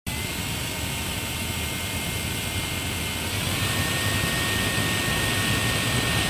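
Jet engine running: a steady rushing noise with a high whine over it. About halfway through it grows a little louder and the whine drops slightly in pitch.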